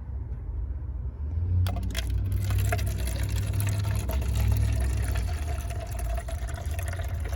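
Liquor being poured from a bottle into a cup, a steady pouring sound starting about a second and a half in, over a low rumble.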